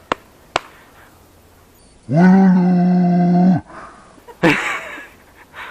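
A man's long, loud yell held on one pitch for about a second and a half, then a shorter cry; a couple of sharp clicks come just before.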